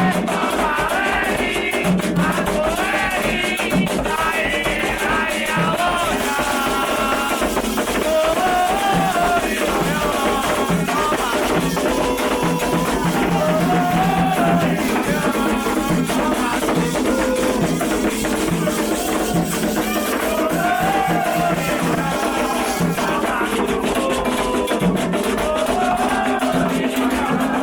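Candomblé chant sung in repeating phrases over steady hand drumming and a shaken rattle.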